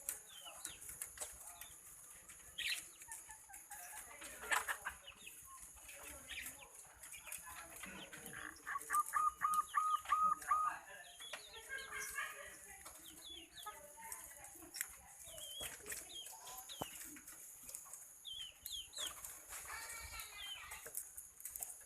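Birds calling: scattered short, high chirps, with a quick run of about eight even clucking notes near the middle, over a steady high hiss.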